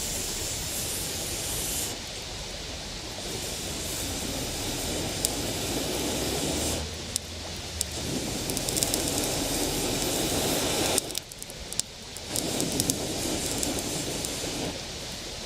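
Wood campfire crackling and hissing, with sharp pops scattered through a steady rushing noise. The sound changes abruptly several times.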